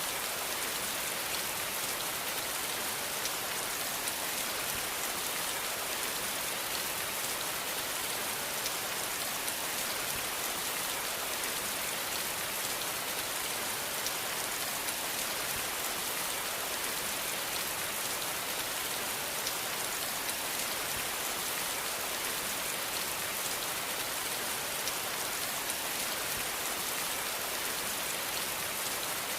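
Steady rain falling on a surface, an even hiss with fine patter of drops that never changes.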